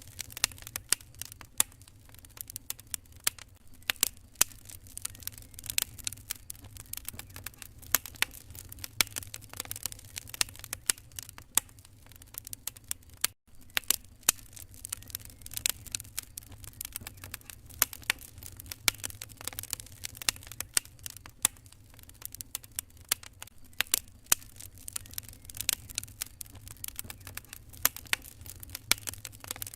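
Wood fire crackling in a fireplace: irregular sharp pops and snaps over a steady low rumble. The sound cuts out for an instant about halfway through.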